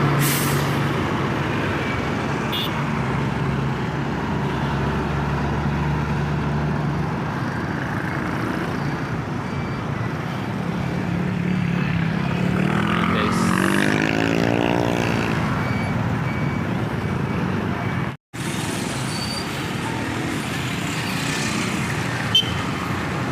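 Road traffic on a town street, with engines running and steady road noise. About twelve seconds in, a nearby vehicle's engine revs up, rising in pitch for a few seconds as it pulls away.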